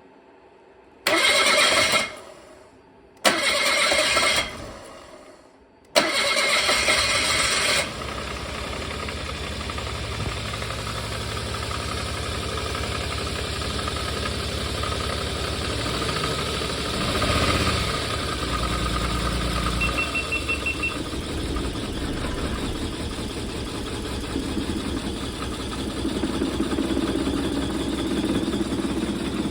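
Suzuki K6A 660 cc turbocharged three-cylinder engine in a JB23 Jimny, cranked on the starter in two short tries that don't catch; the third try fires and it settles into a steady idle. The engine's head gasket has blown from overheating. A brief high beeping sounds about two-thirds of the way through.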